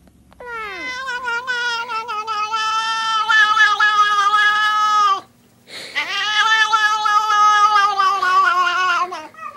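Domestic cat yowling in two long, drawn-out calls, each several seconds long with a wavering pitch, separated by a short break about five seconds in.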